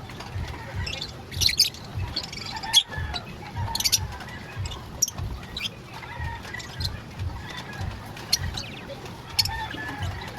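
Lovebirds chirping: many short, sharp chirps at irregular intervals, a few louder than the rest, over a low, irregular thudding.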